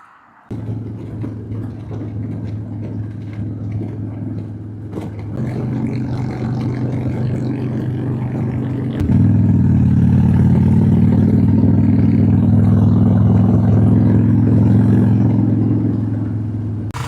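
Harley-Davidson Dyna's V-twin engine running. It comes in suddenly about half a second in, then climbs in pitch and gets louder in two steps, about 5 s in and again about 9 s in, as the bike gets under way.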